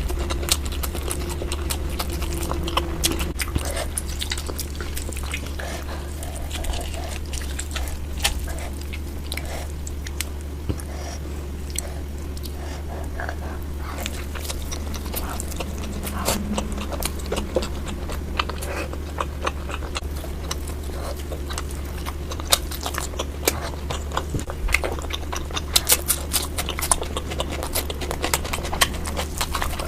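Close-miked chewing and biting of tandoori chicken: many irregular wet smacks, crunches and clicks of mouth and teeth on meat, over a steady low hum.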